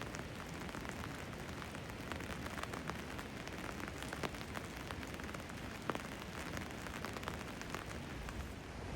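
Steady rain falling, with many individual drops ticking sharply close by; a couple of louder drops land about four and six seconds in.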